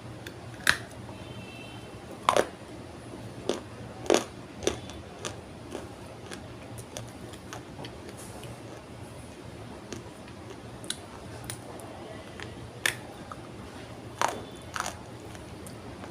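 Dry multani mitti (fuller's earth) clay being bitten and crunched: a series of sharp cracks, with the loudest about a second in, around two and four seconds, and near the end, and smaller crumbling snaps between them.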